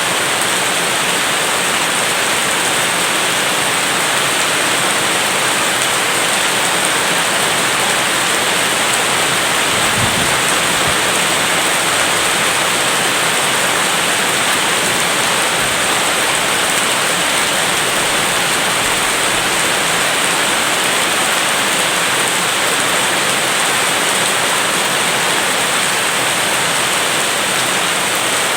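Steady, dense rainfall hiss with no break in level, and one brief low thump about ten seconds in.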